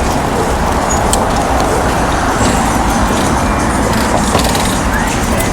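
Steady road traffic noise: a constant low rumble with no distinct events.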